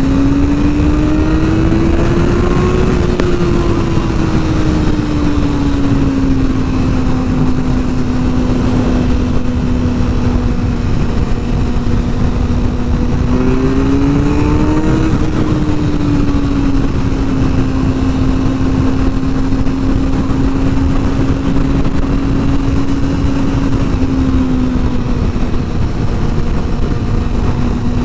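Sport bike engine running at a steady cruise, its revs rising twice, near the start and about halfway through, then easing back each time, over heavy wind rush on the microphone.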